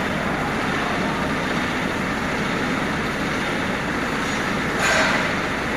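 Heavy machinery running with a steady, loud mechanical noise, and a brief sharper burst about five seconds in.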